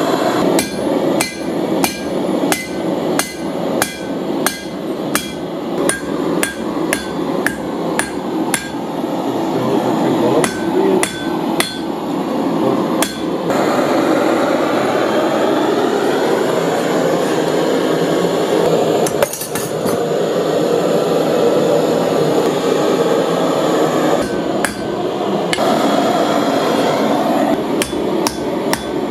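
Blacksmith's hammer striking steel on an anvil while forging tongs, ringing blows at about two a second. Around the middle the blows give way to a steady rushing noise for several seconds, and the hammering resumes near the end.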